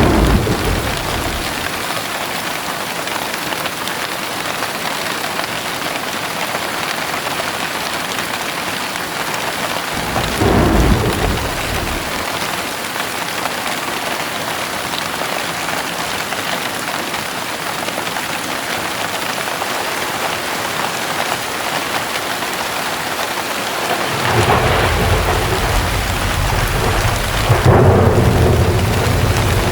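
Heavy rain falling steadily with a constant hiss, and thunder rumbling three times: a short rumble right at the start, another about ten seconds in, and a longer, louder rolling peal building near the end.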